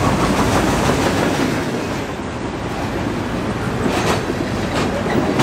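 Freight train cars rolling past close by: a steady rumble of steel wheels on the rails, with two sharper clicks about four and five seconds in.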